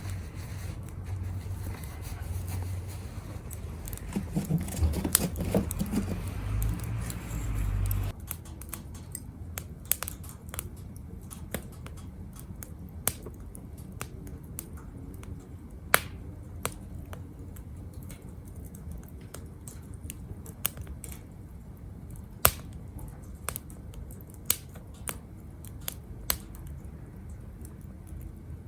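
Wood fire burning in a small grill-stove, crackling with sharp, irregular pops. For the first several seconds a low rumble lies under it, then stops abruptly.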